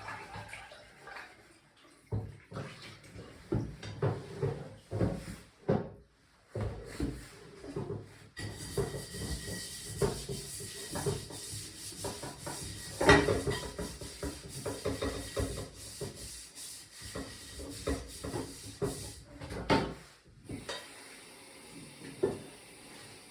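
Kitchen handling sounds: pots, dishes and utensils knocked, scraped and set down in irregular clatters, over a steady hiss through much of the middle that cuts off suddenly near the end.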